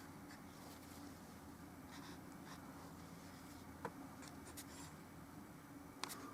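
Faint scratching of a paintbrush stroking oil paint onto the painting surface, with a couple of light ticks about four and six seconds in.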